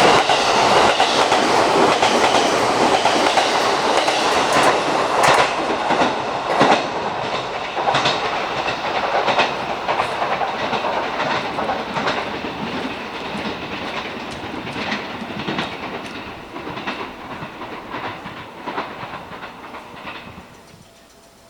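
Train moving away along the track, its wheels clacking irregularly over rail joints. The sound fades steadily and dies away near the end.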